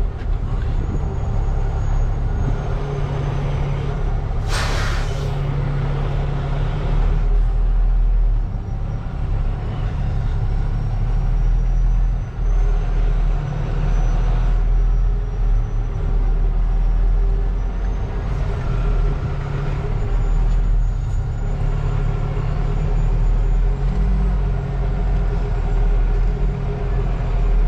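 Semi truck's diesel engine running steadily, heard from inside the cab. About five seconds in there is a short, sharp hiss of air from the truck's air brakes.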